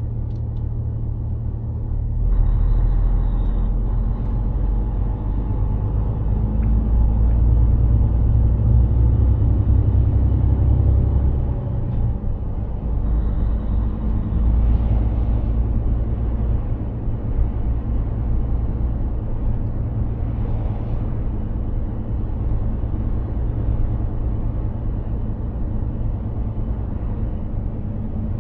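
Mercedes-Benz Actros 2763 truck engine and road rumble while driving. It pulls louder from about two seconds in, then eases off about twelve seconds in, with a few soft hissing swells over the drone.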